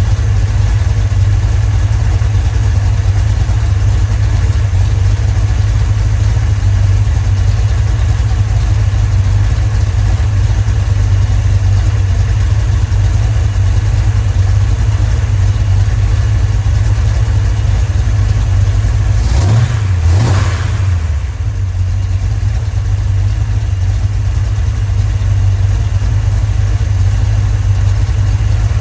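Freshly rebuilt Mopar 318 V8 idling steadily on its first runs, with one short rev about twenty seconds in before it settles back to idle.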